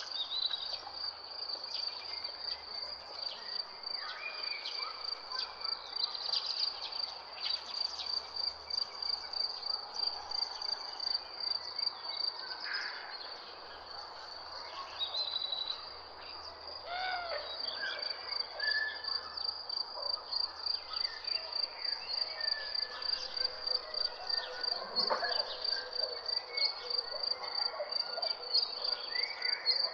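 High, evenly pulsing insect chirping, cricket-like, that briefly fades about halfway through, with scattered short bird calls and whistles over it.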